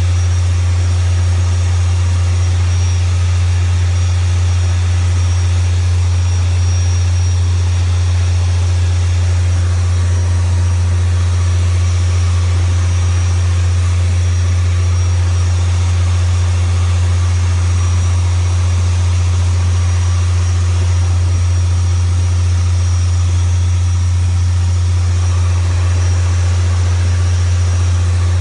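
Motorboat engine running with a steady low drone and an even rush of noise over it, unchanging throughout.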